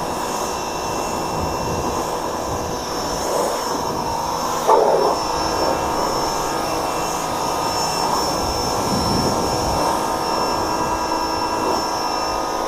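Electric pressure washer's motor and pump running with a steady whine while the wand sprays water, a brief louder burst about five seconds in.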